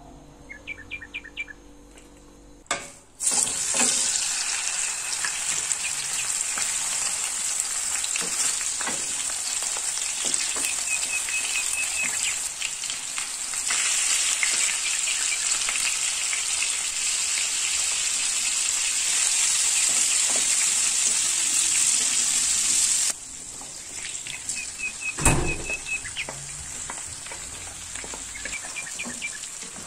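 Chicken pieces frying in hot oil in a non-stick pan: a loud, steady sizzle starting about three seconds in, which drops abruptly to a quieter sizzle later on, with one sharp knock near the end. A small bird chirps briefly a few times in the background.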